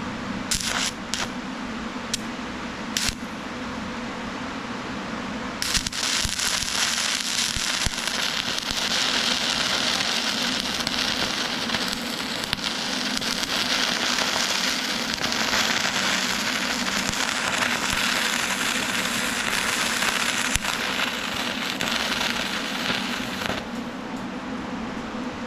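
Wire-feed (MIG) welder arc: a few short tacks in the first three seconds, then a continuous crackling weld bead starting about six seconds in and stopping a couple of seconds before the end. A steady low hum runs underneath.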